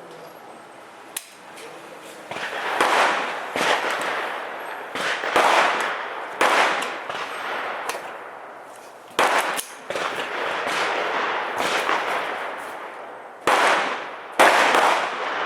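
Sig 522 .22 LR rifle firing Federal Champion lead-bullet rounds: about eight single shots at uneven intervals, each cracking sharply and ringing out for about a second.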